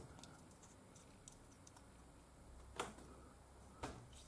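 Near silence with a few faint, sharp clicks; the clearest comes about three seconds in and another about a second later.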